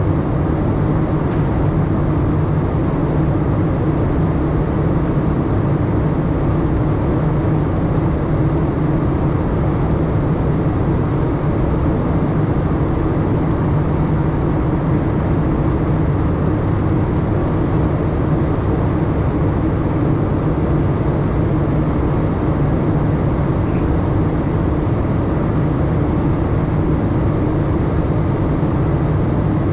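Steady cabin noise inside a Boeing 787-8 airliner: an even low rumble of engines and airflow that stays unchanged throughout.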